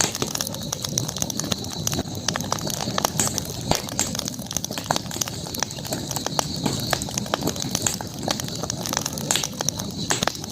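Campfire burning, the wood crackling with many small, irregular sharp pops over a steady high hiss.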